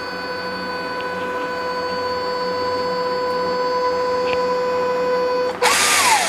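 Small electric motor whining steadily at one pitch and slowly growing louder. It cuts off about five and a half seconds in with a short loud burst of hiss, and its pitch falls away as it winds down.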